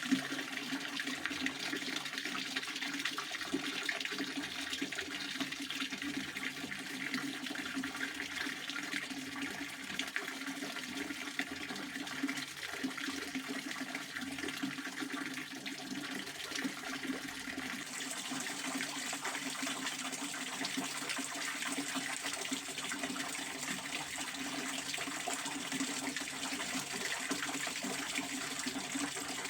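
Pond water fountain splashing steadily, a continuous rush of falling water. A higher hiss joins in about two-thirds of the way through.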